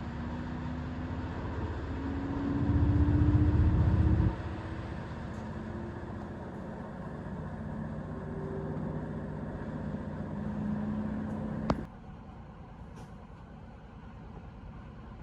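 Class 220 Voyager diesel-electric train running, steady engine and rail noise with a hum that slowly rises in pitch. A louder low rumble lasts about a second and a half a few seconds in. A sharp click comes near the end, after which the noise drops much quieter.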